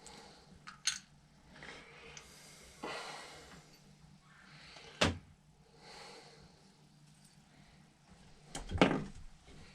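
Small metal carburetor parts being handled and set down on a workbench: scattered clicks and knocks, with a sharp one about a second in, another about five seconds in and the loudest near the end, and light rattling in between.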